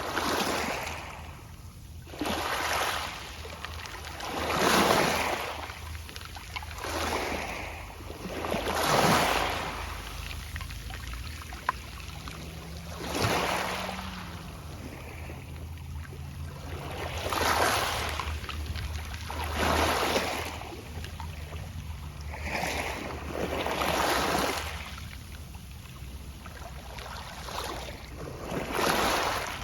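Small waves breaking on a pebble beach, each wash of water ending in a soft rustling of pebbles. About a dozen irregular surges rise and fade every two to four seconds.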